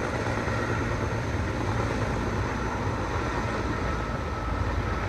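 Steady engine rumble with a faint, constant high whine over it.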